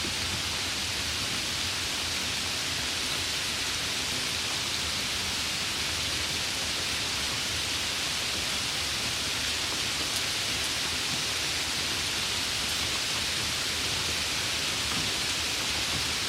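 Steady rain falling, an even patter with no single drops standing out.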